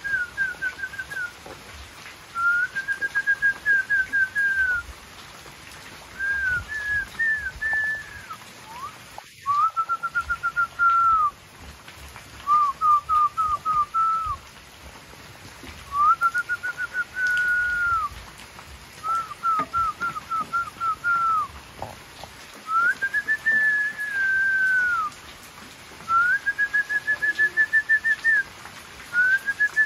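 A songbird singing: short phrases of quick whistled notes, repeated every two or three seconds.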